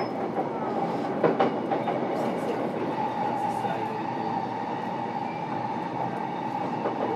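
Running sound inside a JR East E233-7000 series electric train's motor car on the move: a steady rumble of wheels on rail, with a couple of rail-joint clacks a little over a second in. A steady high whine joins from about three seconds in.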